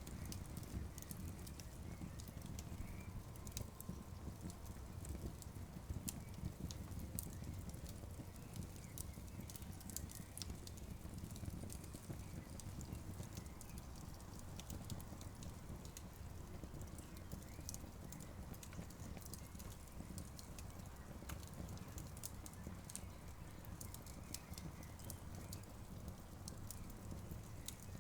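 Campfire crackling, with many irregular sharp pops and snaps over a low, steady rumble of burning.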